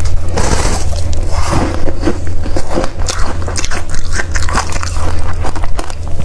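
Freezer frost ice being bitten and chewed close to the microphone: dense, continuous crunching and crackling.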